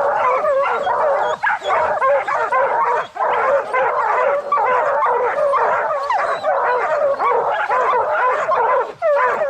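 A pack of bear hounds baying and barking treed, many voices overlapping almost without pause, holding a bear up a tree.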